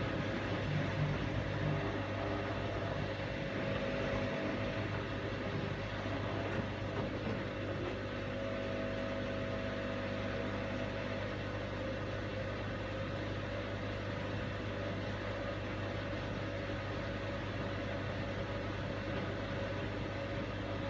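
Washing machine running with a steady motor hum and whir, slightly uneven in the first few seconds, then even.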